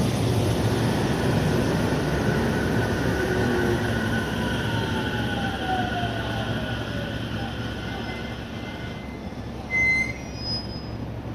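JR 313-series electric train pulling into the platform and braking to a stop. Its running noise fades as it slows, with a falling whine from the traction motors. A short, high squeal comes near the end as it halts.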